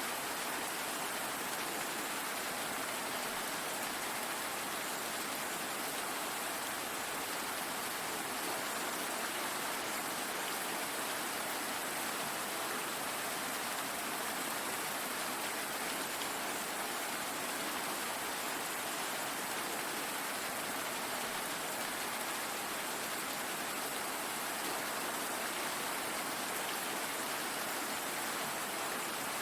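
Steady rain falling and pattering on a surface, an even hiss with no change in strength.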